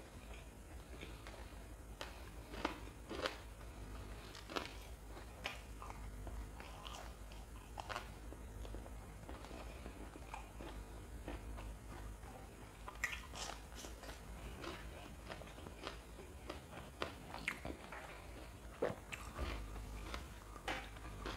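A person chewing crisp fried wade close to the microphone: irregular crunches and crackles, with a few sharper, louder crunches among them.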